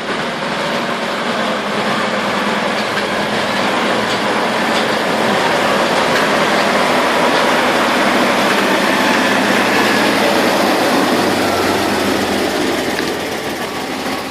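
MAN 32.240 tipper truck driving, its diesel engine and road noise steady, swelling to a peak about midway and easing off toward the end.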